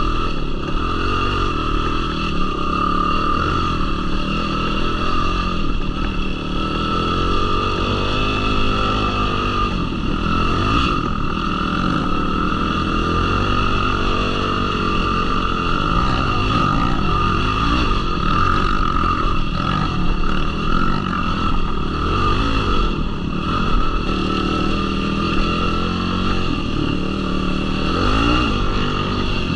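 Yamaha YFZ450R sport quad's single-cylinder four-stroke engine running under way, its revs rising and falling over and over with the throttle.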